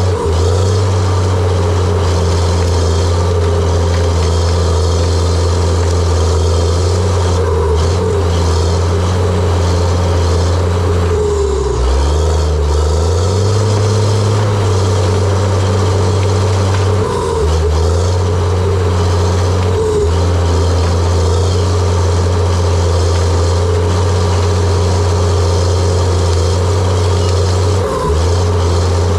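John Deere 700J-II crawler dozer's diesel engine running steadily under work, its pitch dipping briefly and picking back up a few times: around twelve seconds in, again around seventeen, and once near the end.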